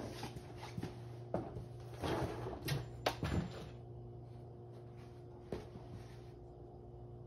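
A few sharp clicks and knocks with some rustling handling noise about two to three and a half seconds in, over a faint steady hum.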